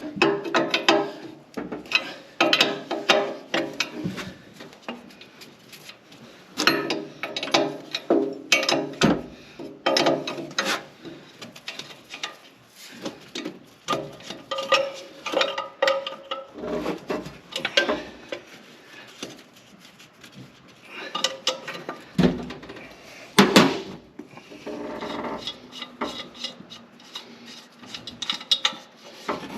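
Wrench and metal fittings clinking, scraping and rattling in irregular bursts as the turbo pressure line is worked loose from the engine.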